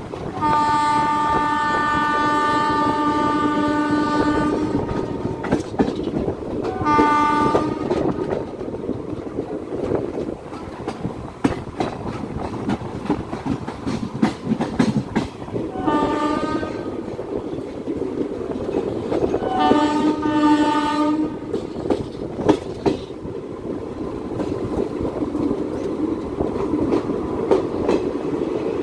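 Indian Railways train horn: one long blast near the start, a short one a few seconds later, then two more short blasts past the middle. Under it runs the steady rumble of the moving train, with the clickety-clack of wheels over rail joints.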